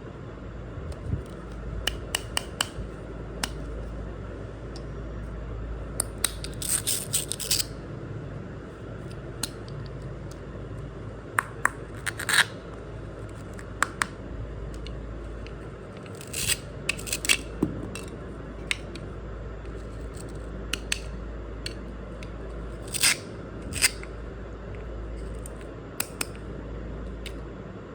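Miniature toy kitchen pieces being handled: scattered light clicks and taps, some in quick clusters, over a steady low hum.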